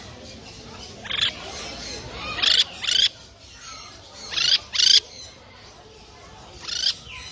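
A bird giving short, sharp calls, about six in all, each sweeping up in pitch. Two of them come in quick pairs.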